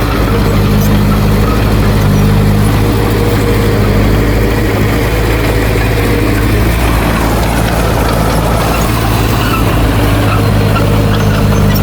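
Heavy diesel engine of earthmoving machinery running steadily at a low, even pitch that shifts slightly a couple of times.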